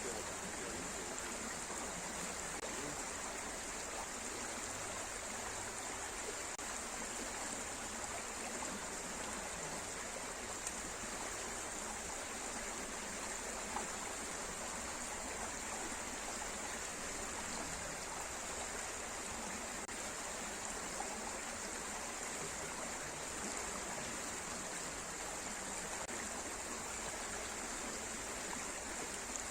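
Stream of running water, a steady even rush.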